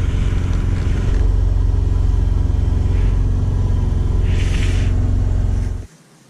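Subaru flat-four boxer engine running steadily, with a short hiss about four and a half seconds in, then shut off, cutting out suddenly near the end.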